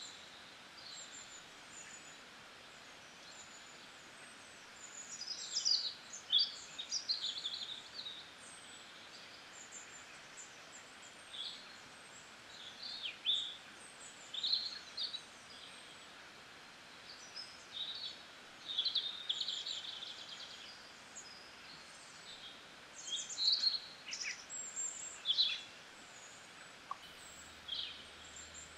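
Small birds chirping and twittering in short clusters over a steady background hiss.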